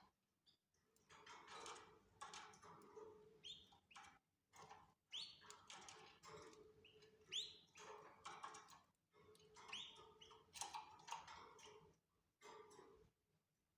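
Canaries chirping and calling faintly, with a run of short notes that includes several quick upward-sweeping chirps.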